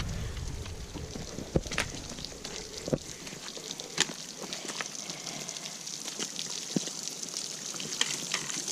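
Light rain pattering: a steady hiss with scattered, irregular drop ticks.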